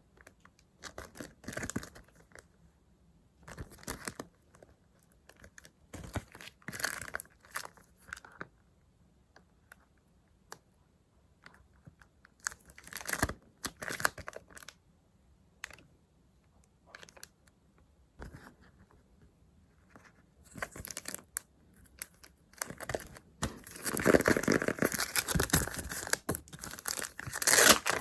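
Stickers peeled off their backing sheets and paper handled, rustling and crinkling in short bursts with quiet gaps between. The crinkling becomes louder and almost continuous in the last few seconds.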